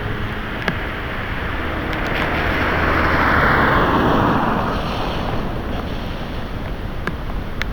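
Heavy rain with strong wind, a gust swelling to a peak midway and then easing off, with scattered sharp ticks of drops hitting something hard.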